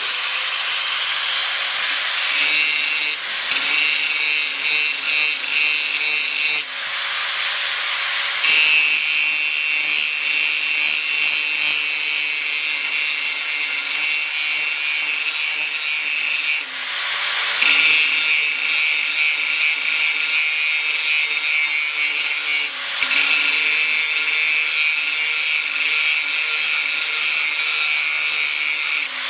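A power tool cutting into steel plate: a steady high-pitched whine over loud grinding noise, easing off briefly several times as the tool lifts from the work.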